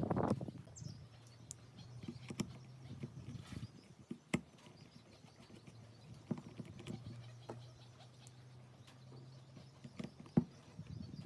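Scattered light clicks and knocks over a faint steady low hum, with two sharper knocks, one about four seconds in and one near the end. A louder rushing noise cuts off just after the start.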